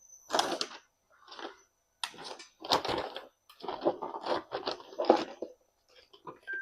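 Packages and containers being rustled and moved about while someone rummages through a kitchen, in a run of short irregular bursts.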